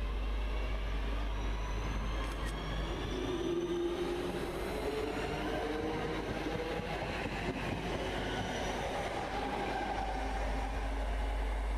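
Electric multiple-unit passenger train passing close by along the platform: a steady rush of wheels on rails and air, with whining tones that glide down in pitch as it goes by.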